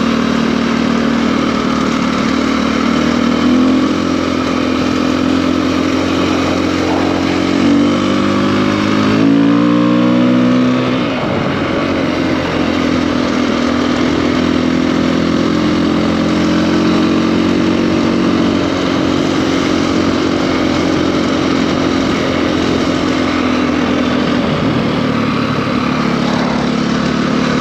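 KTM EXC-F enduro bike's single-cylinder four-stroke engine, bored out to 280 cc, being ridden: mostly steady running, with the revs climbing in a few quick steps about eight to ten seconds in, then dropping back to a steady cruise.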